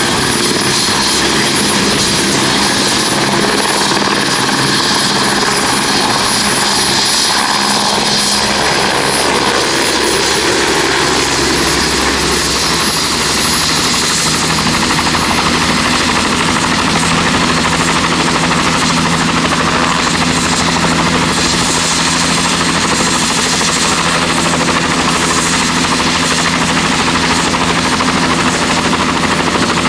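Turbine helicopter running close by: a steady high turbine whine over the rotor noise, with the low rotor sound shifting about eight seconds in.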